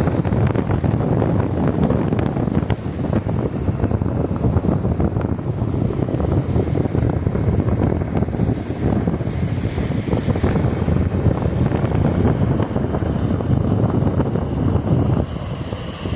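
Wind buffeting the microphone in gusts over lake waves washing onto the shore.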